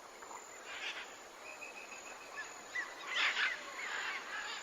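Forest ambience with bird calls: a held whistled note about a second and a half in, a few short chirps after it, and two brief harsher bursts, near one second and near three seconds.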